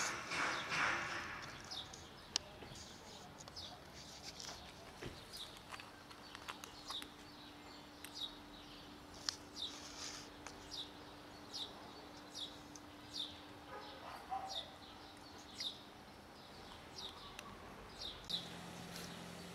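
A small bird chirping over and over in short, high, falling notes, about one to two a second, with a few sharp clicks from cats crunching dry kibble close by.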